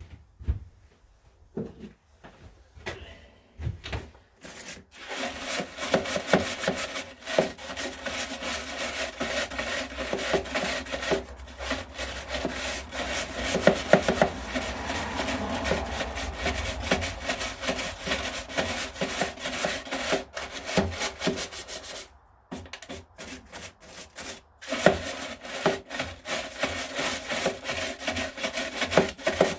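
Continuous rapid rasping, scraping strokes starting about five seconds in, with a pause of about two seconds near the end before they resume.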